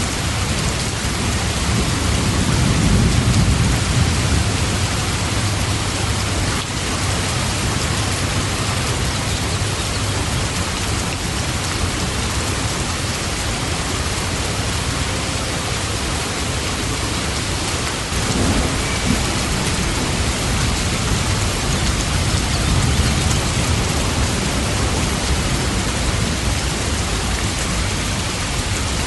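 Steady rain with low rumbles of thunder, the loudest rolling in a few seconds in and a softer one near the end.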